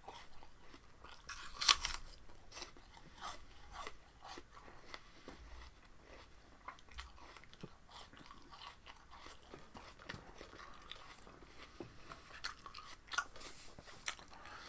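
Crunchy chewing and biting of raw spinach stalks, a run of crisp crunches with the loudest bite a little under two seconds in.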